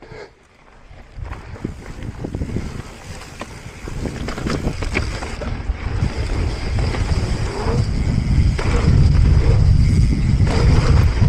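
Transition Patrol Alloy mountain bike descending a dirt trail: wind buffeting the action camera's microphone and tyres rumbling over the ground, building steadily as speed picks up, with scattered rattles and clicks from the bike.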